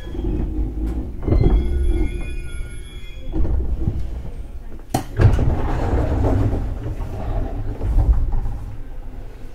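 JR 211 series electric train heard from inside the car as it stops at a station: low rumble with a faint high brake squeal in the first few seconds, then a sharp clack about five seconds in followed by a rush of air and rumble as the pneumatic sliding doors open.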